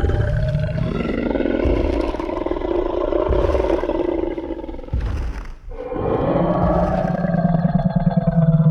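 Tyrannosaurus rex roar sound effect: two long, deep, rough roars, the second starting about six seconds in, with a heavy thud between them.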